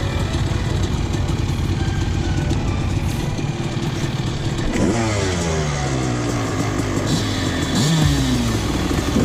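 Honda CR250 two-stroke single-cylinder dirt bike engine running at low revs, then from about five seconds in revving up sharply a few times, its pitch sinking between each rev.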